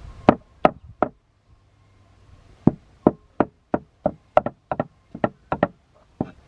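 A series of sharp knocks: three in quick succession, a short pause, then a steady run of about three knocks a second.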